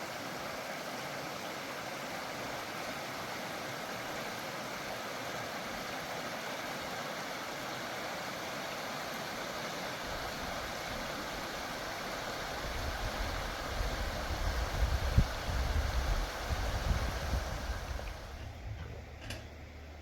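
Steady rush of running water. A low, uneven rumble comes in about halfway through and grows louder, and the water sound drops away near the end.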